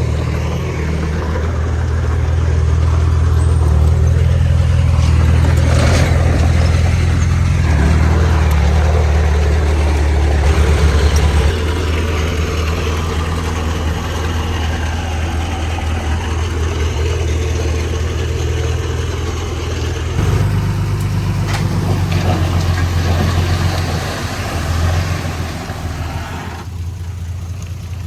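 Heavy diesel engine of earthmoving machinery running steadily, its low drone stepping to a different pitch about eleven seconds in and again around twenty seconds. A broad rushing noise rides above it and falls away near the end.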